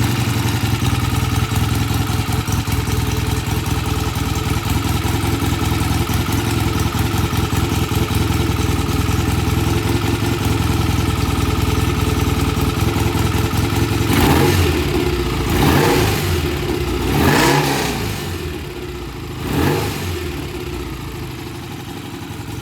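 BSA A65 Lightning's 650 cc parallel-twin engine idling steadily, then four short throttle blips in the second half before settling back to a slightly lower idle. It runs smoothly after its pilot jet was cleaned and the carburettor balanced and its idle and mixture set.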